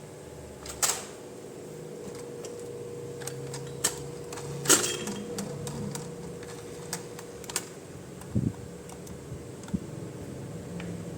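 Irregular clicks and taps of plastic toy parts being handled, a few of them sharper and louder, over a faint steady hum.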